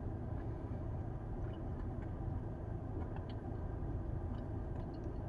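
A steady low rumble with a few faint, small clicks over it.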